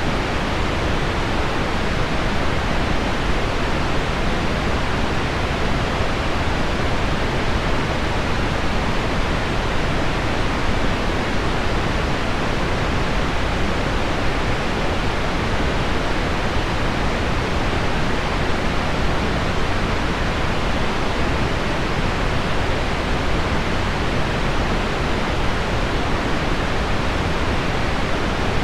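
Steady, unchanging rushing noise: low, deep pink noise blended with heavy rain on window glass, with no single drops or gusts standing out.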